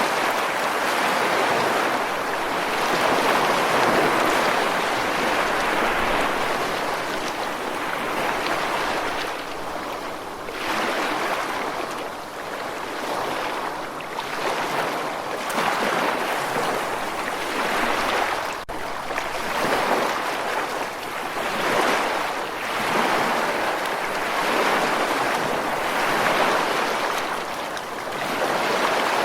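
Ocean waves washing on a shore: a continuous rush of surf that swells and eases every two to three seconds.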